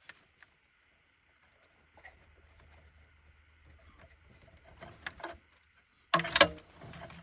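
Handling noises from hands working in a car's engine bay: scattered light clicks, then a short, loud clatter of knocks a little after six seconds in.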